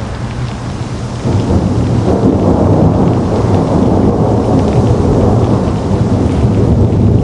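Steady rain with thunder: a deep rumble swells in suddenly about a second in and keeps rolling.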